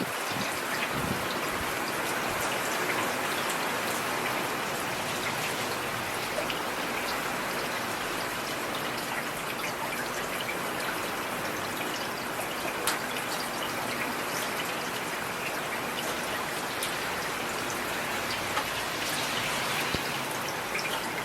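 Steady rain falling, an even hiss with scattered drop spatters and one sharper tap about midway.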